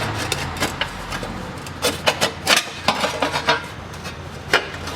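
A sheet-metal heat shield being fitted into place under a car, with a run of sharp knocks and rubbing scrapes as it is pushed onto its studs.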